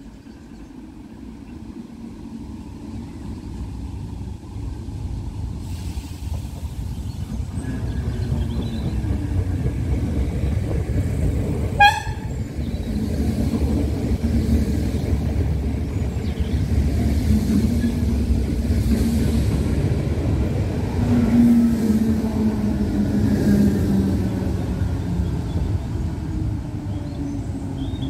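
DART electric commuter train approaching and running in along the platform, its wheels on the rails making a low rumble that builds steadily. A short horn toot sounds about twelve seconds in, and later a low whine sinks slightly in pitch as the train slows.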